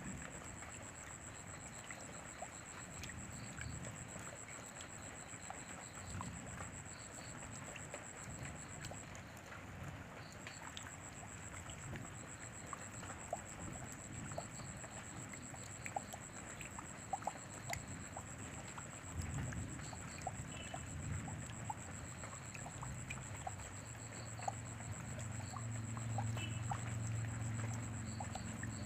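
Steady rain with many scattered individual drips ticking. A low rumble comes in about two-thirds of the way through and grows louder toward the end.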